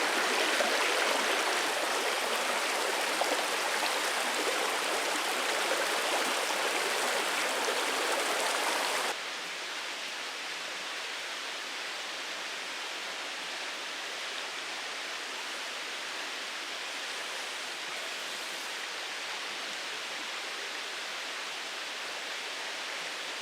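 Steady, even rushing noise like running water, with no distinct events. About nine seconds in it cuts abruptly to a quieter, duller version of the same rush.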